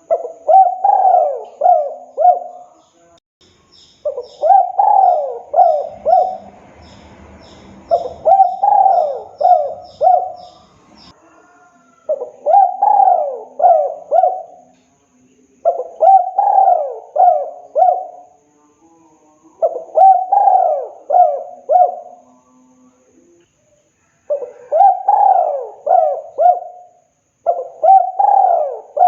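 Spotted dove (tekukur) cooing its song: a phrase of four or five low coos, repeated about every four seconds, eight times.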